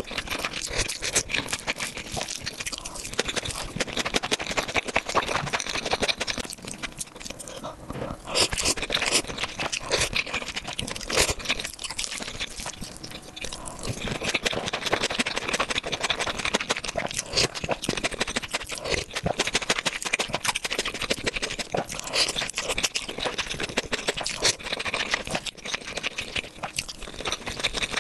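Close-miked eating sounds: chewing and crunching, a dense run of small wet clicks and smacks.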